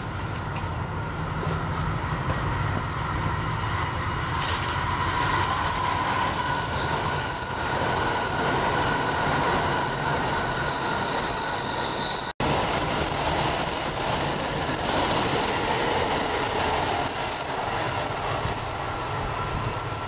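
Electric train running past on the rails, a steady rumble with high-pitched wheel squeal as it takes a curve; the sound breaks off briefly about twelve seconds in and carries on.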